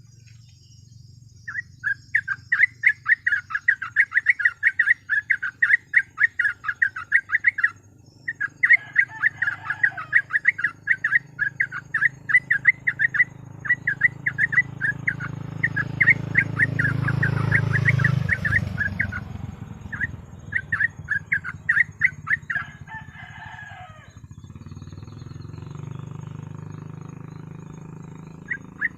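Yellow-vented bulbul (trucuk) singing in full voice: long runs of fast, rapid-fire repeated chirps, broken by short pauses. Partway through, a rush of noise swells and then drops off suddenly.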